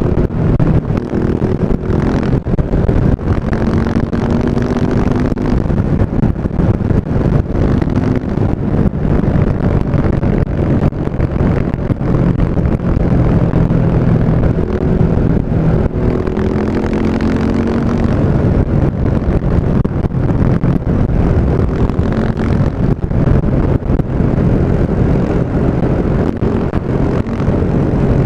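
KTM 690 Enduro's single-cylinder engine running through an Akrapovic exhaust. Its note holds steady, with a few short rises in pitch.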